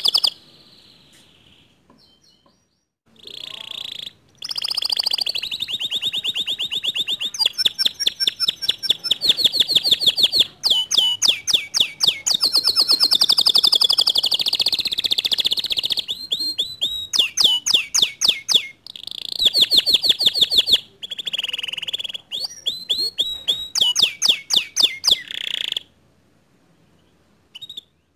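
Canary singing: long phrases of rapid trills, runs of fast repeated high notes and rolling warbles, broken by short pauses. The song begins a few seconds in and stops near the end.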